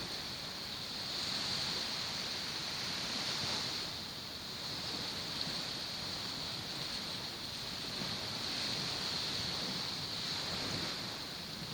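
Waves washing against the shore, rising and falling gently every few seconds, under a steady high-pitched hiss.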